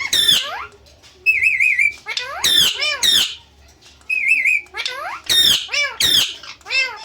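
Indian ringneck parrot giving a series of loud, harsh squawks, with two short warbling whistles in between.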